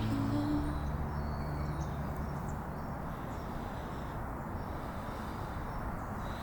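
The tail of background music dies away in the first second or two, leaving a steady low outdoor rumble with a few faint bird chirps.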